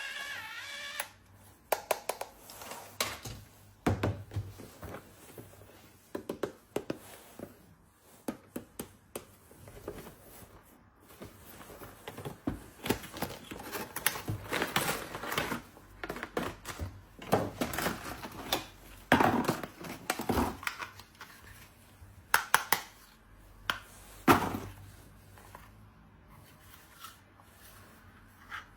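Hands unpacking a small toy: irregular clicks and taps of small plastic parts, with rustling and scraping of packaging between them.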